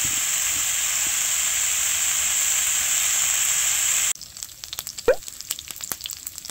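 Food sizzling loudly and steadily in a hot pan. After about four seconds it drops suddenly to a quieter crackling with scattered pops, and there is a short knock about a second later.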